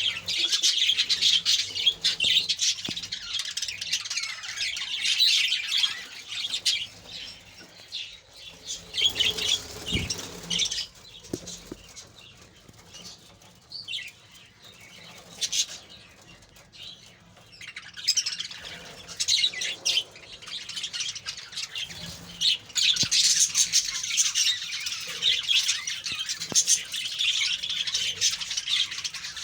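A colony of budgerigars chattering and chirping all together, busiest at the start and again toward the end, with a quieter spell in the middle.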